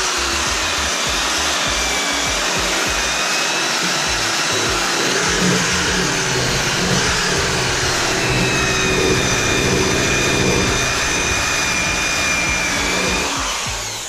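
Handheld electric power tool running steadily while stripping paint off a steel Jeep body, a motor whine over a steady rush; it shuts off near the end.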